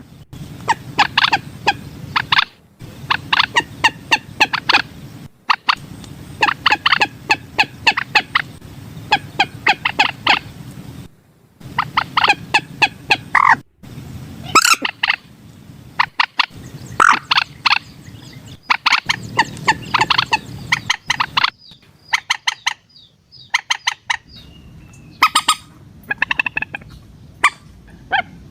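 Common moorhen calling: bursts of rapid clucking notes, each run lasting a second or two, repeated again and again with short gaps.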